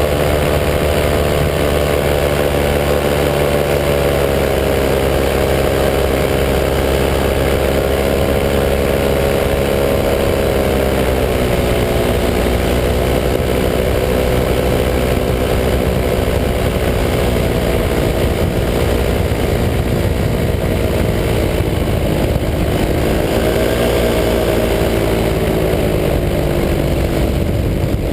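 185 cc EcXtreme paramotor's two-stroke engine and propeller running steadily in flight, a loud continuous drone whose pitch dips slightly midway and rises briefly near the end as the throttle shifts.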